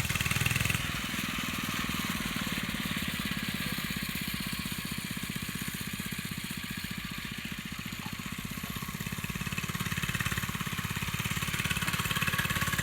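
Baja Doodlebug mini bike's 3-horsepower engine running steadily, fading somewhat in the middle and growing louder again near the end.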